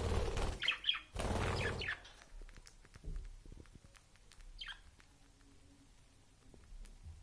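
Pet budgerigars chirping in short calls. There are two loud rustling bursts in the first two seconds, then scattered light clicks and a single falling chirp about four and a half seconds in.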